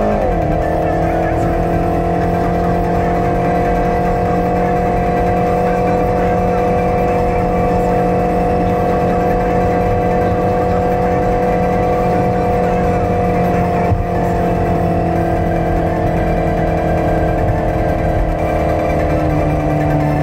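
Mercedes M-Class V8 engine heard from inside the cabin with tyre and road noise, cruising at a steady engine speed. The revs drop sharply right at the start and ease lower again near the end.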